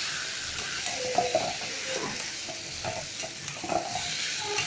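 Eggs and potatoes frying in sizzling curry masala in a pan, stirred with a utensil that scrapes and clatters against the pan at irregular moments over a steady sizzle.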